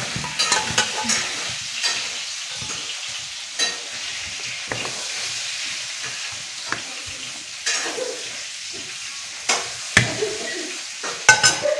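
Oil sizzling steadily in frying, with a metal slotted spoon clinking and scraping every few seconds, the loudest clinks near the end.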